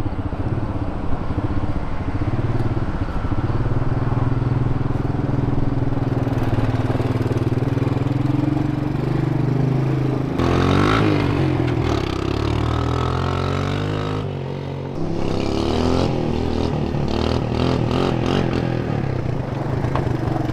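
Three-wheeler ATV engine running, its pitch rising and falling as it is revved, with a few short knocks and clatter around the middle.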